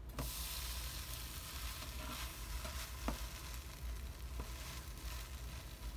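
Cheese-and-pepperoni sandwich frying in a hot nonstick pan: an even sizzle that comes up suddenly as the flipped sandwich is laid back down on its other side. A few faint clicks come through the sizzle.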